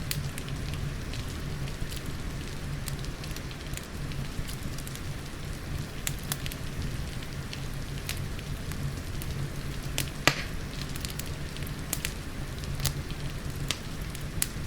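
Wood fire crackling in a fireplace, with scattered sharp pops (the loudest about ten seconds in), over a steady low rumble and the soft hiss of gentle rain.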